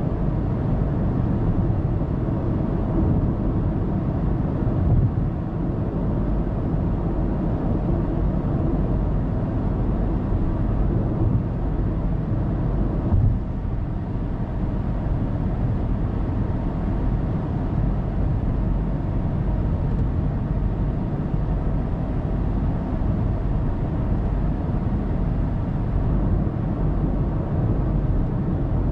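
Car driving at expressway speed: steady, low road and tyre noise with engine sound, heard through a dashcam inside the cabin. Two brief thumps stand out, about five and thirteen seconds in.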